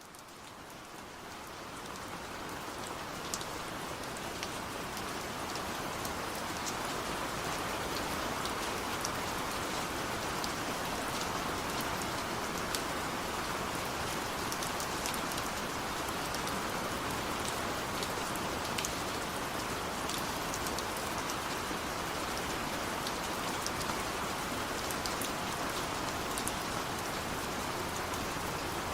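Heavy rain falling steadily, a dense hiss with scattered sharp drop hits on a surface, fading in over the first few seconds and then holding steady.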